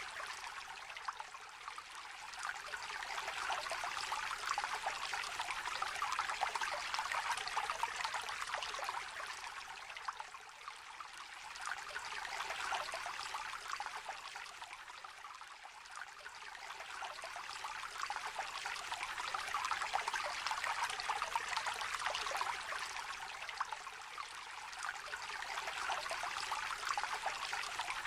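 A shallow river or stream trickling and babbling over stones, a busy fizz of small splashes with little low rumble, swelling and easing slowly every several seconds.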